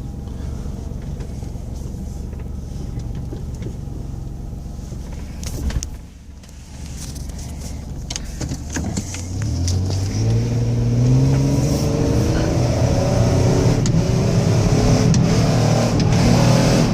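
2005 Ford Escape engine heard from inside the cabin, running steadily, then revving up under full throttle from about halfway through, the pitch rising for a couple of seconds and then holding at high revs. The flooring is meant to make the automatic transmission skip gears, a slipping-transmission complaint. A short thump comes about six seconds in.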